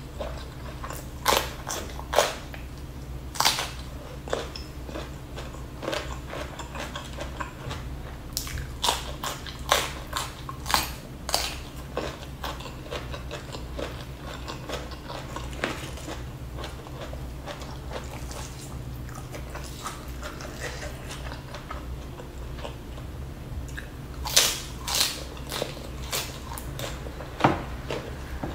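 Close-miked chewing and crunching of a mouthful of rice, fried milkfish and crisp raw green vegetables. Crisp bites come in bursts near the start, a few seconds later, and again near the end, with quieter chewing between, over a steady low hum.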